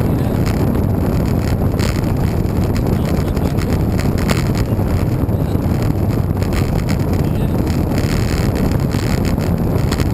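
Wind rushing over the microphone while cycling: a loud, steady rumbling noise with a few faint clicks.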